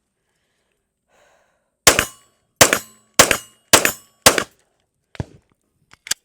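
Five shots from a Steyr Arms L9-A2 MF 9mm pistol, fired about half a second apart, followed near the end by two fainter sharp sounds.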